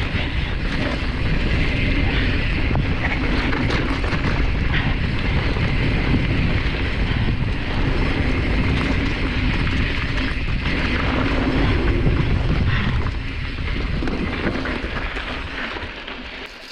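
Wind rushing over the microphone and mountain bike tyres rolling over a dirt trail at speed, with scattered clicks and rattles from the bike over rough ground. The noise eases off near the end.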